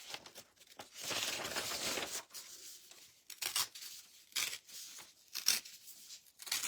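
A sheet of printed paper being torn in two: one long tear about a second in, followed by several short rips and rustles.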